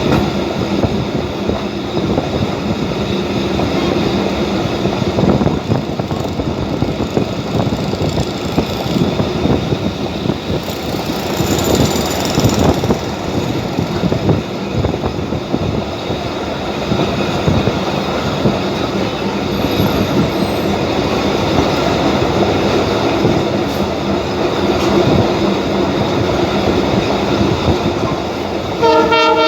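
Passenger train of the Abu Qir line running along the track, with a steady rumble of wheels and clatter over the rail joints. A thin high wheel squeal comes in briefly near the middle, and the train's horn starts to sound just at the end.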